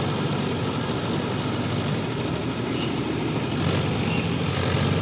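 Mahindra Yuvo Tech Plus 585 DI tractor's diesel engine running steadily while it pulls a rotavator through wet mud.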